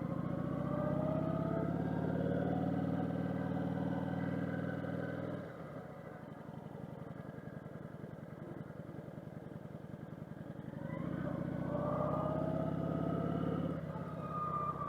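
Kawasaki motorcycle engine running under way, its note climbing as it accelerates. It drops and eases off about five seconds in, then climbs again with a short dip near the end, as at a gear change.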